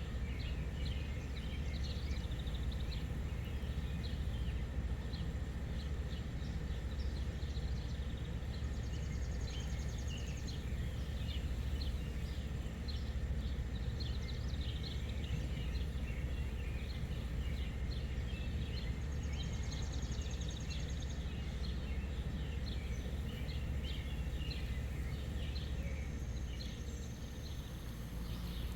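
Small birds chirping over a steady low rumble of outdoor background noise, with a brief rapid high trill twice, about nine and nineteen seconds in.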